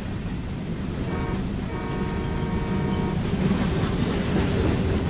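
A train running on the rails with a steady low rumble and wheel clatter. A held, many-toned note sounds over it twice, briefly about a second in and again for over a second soon after.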